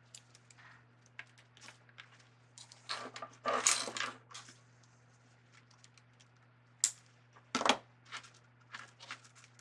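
Hands working deco mesh and a zip tie: rustling of the mesh with short clicks and snaps as the zip tie is pulled tight, the longest bout of rustling about four seconds in. A steady low hum runs underneath.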